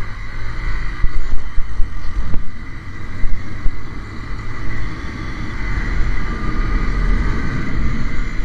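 150 cc motorcycle engine running while riding, mixed with a heavy low wind rumble on the microphone.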